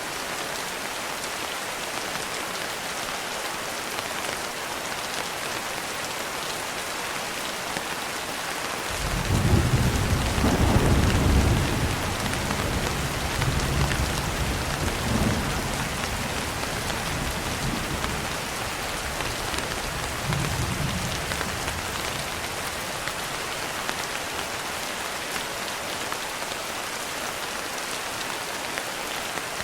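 Steady rain falling, with a roll of thunder. The thunder starts abruptly about nine seconds in and is loudest just after that. It rumbles on with a few swells and dies away about two-thirds of the way through.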